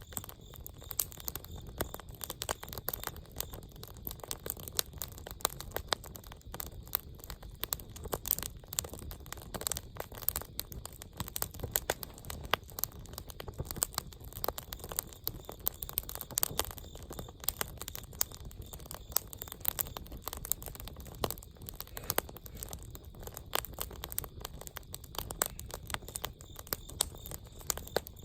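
Wood campfire burning vigorously: a steady rush of flame with dense, irregular crackling and popping of the burning logs throughout.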